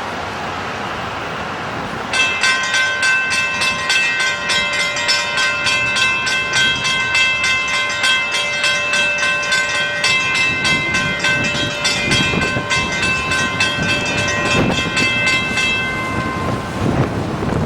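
Railroad grade-crossing warning bell ringing in rapid, even strikes for about fourteen seconds, starting about two seconds in, over steady wind noise. Low rumble builds near the end.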